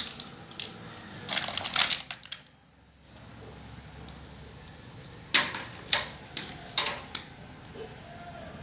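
Small hard objects clicking and clattering, most likely plastic toy pieces being handled: a quick run of clicks just before the middle, then a handful of separate sharp clicks later on.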